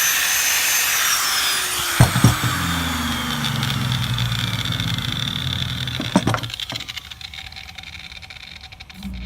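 A power tool working on the metal of an old sickle blade, its motor pitch falling steadily, with a few sharp knocks about two and six seconds in. Near the end it winds down and the sound drops to a lower level.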